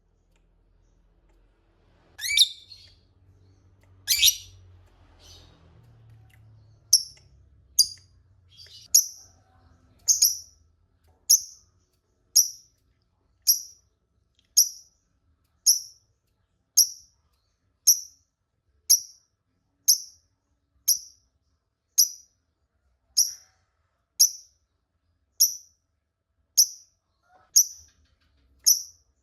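Lovebird calling: two loud calls near the start, then a steady series of short, high, sharp chirps, about one a second.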